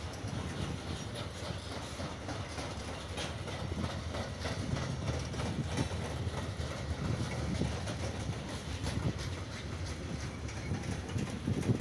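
Freight train of covered sliding-wall wagons rolling past: a steady low rumble with the repeated clickety-clack of the wagon wheels on the track.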